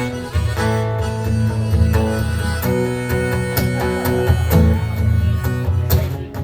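Acoustic guitar strumming the song's instrumental intro, with long held melody notes over the chords.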